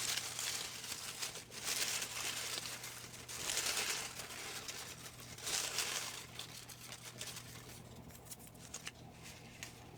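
Paper name slips rustling and crinkling as they are rummaged in a hat and one is drawn out and unfolded: several bursts of rustling in the first six seconds, then quieter small crinkles and ticks.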